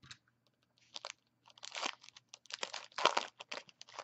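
Trading card pack wrapper crinkling as it is handled and opened, in a series of irregular rustling bursts, the loudest about three seconds in.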